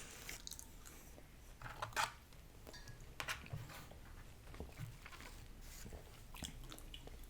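Quiet chewing and mouth sounds of people eating burgers and fries close to the microphone, with a few soft crunches and clicks scattered through.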